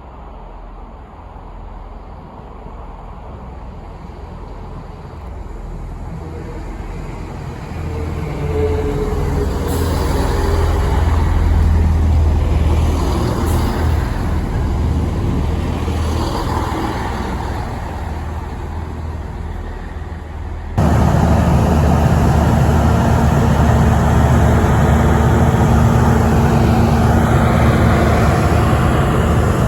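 A train approaching and passing, its deep engine rumble growing louder over about ten seconds. About two-thirds of the way through the sound cuts abruptly to another train running loud and steady, with a low engine hum.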